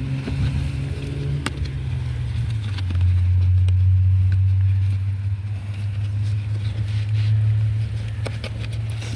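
Steady low engine hum that deepens and grows louder about three seconds in, with a few light clicks of handling.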